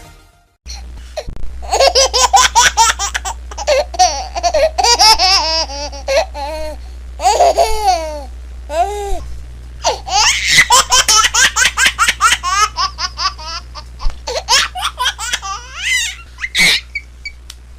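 A baby laughing hard in long runs of quick, breathy giggles and squealing belly laughs, with short catches of breath between bouts. The laughing starts about a second in, after a brief gap.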